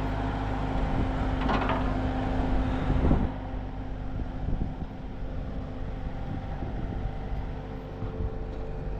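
Engine running steadily, louder for the first three seconds and then dropping to a quieter, even run, with a brief rattle about one and a half seconds in.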